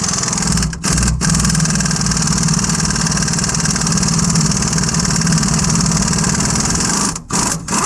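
Impact wrench running in long trigger pulls, loosening the strut bolts on a truck's front suspension. It cuts out briefly about a second in and again twice near the end.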